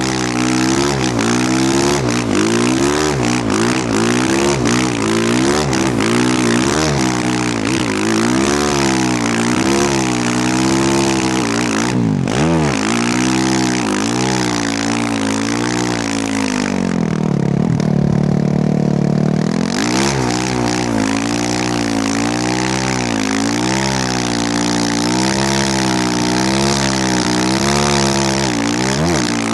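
Yamaha YZ450F four-stroke single-cylinder dirt bike engine being ridden, its pitch rising and falling over and over as the throttle is worked, with a steady hiss over it. About seventeen seconds in, the engine holds one lower steady note for a couple of seconds and the hiss drops away.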